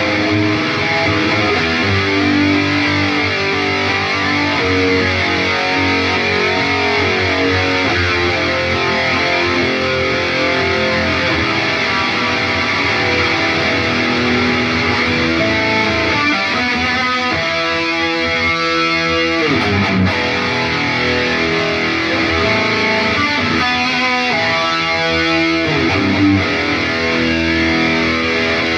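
Electric guitar played through an Atomic AmpliFire amp-modelling pedal with distortion, heard through cheap computer speakers: fast single-note runs and noodling, with a few held notes.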